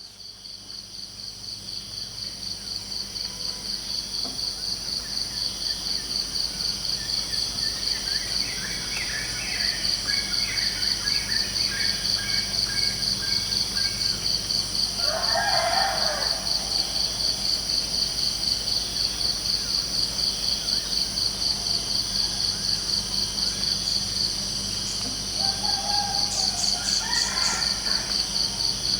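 Crickets chirping in a steady, rapidly pulsing high trill that fades in at the start, with a few bird calls over it about a third of the way in, midway and near the end.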